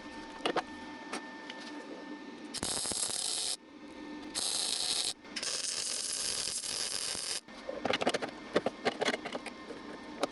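Three bursts of MIG welding on car body steel, a crackling hiss while the arc runs, the last and longest nearly two seconds, followed by a cluster of sharp clicks and taps.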